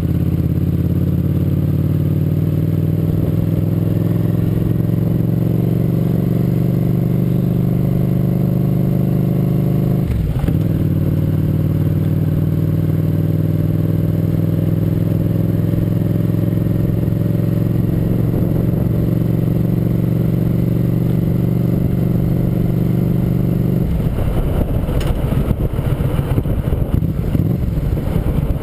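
Motorcycle engine running under way, its note climbing slowly, with a brief break about ten seconds in like a gear change, after which it climbs again. Near the end the steady engine note gives way to a rougher, noisier sound.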